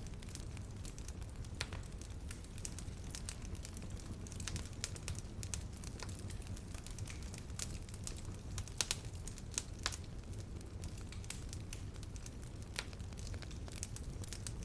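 Wood fire crackling in a fireplace: a steady low rumble of flames with irregular sharp pops and snaps, a few louder ones past the middle.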